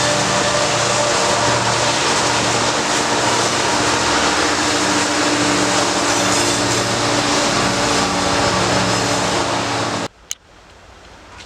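Train passing close by: a loud, steady rolling rumble with a low engine drone underneath. It cuts off abruptly about ten seconds in, leaving faint wind.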